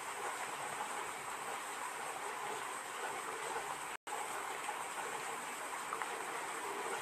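Heavy rain falling steadily, an even hiss, cut by a split-second dropout to silence about four seconds in.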